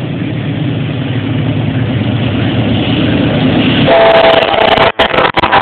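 Diesel locomotive passing directly beneath, its engine rumble growing louder, with the train horn sounding in a chord of several tones about four seconds in. Near the end the sound breaks up as the exhaust blast buffets the phone's microphone.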